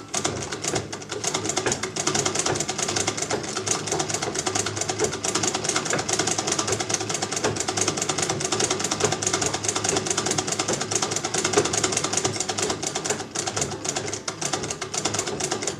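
1913 Singer treadle sewing machine running steadily, a fast even clatter of needle and mechanism that starts and stops abruptly.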